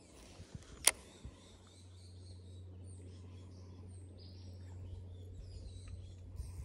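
Faint bird chirps over a steady low hum, with one sharp click about a second in.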